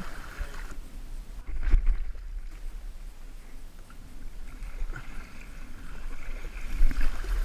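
Kayak on the water: paddling and water noise over a steady low rumble, with a single sharp knock about two seconds in.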